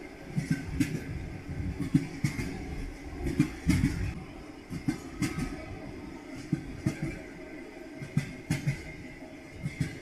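Train wheels clattering over rail joints: repeated knocks, often in quick pairs or triplets, over a steady low rumble.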